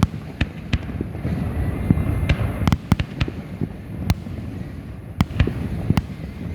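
Fireworks going off, a rapid, irregular string of sharp bangs and cracks over a continuous low rumble of distant explosions.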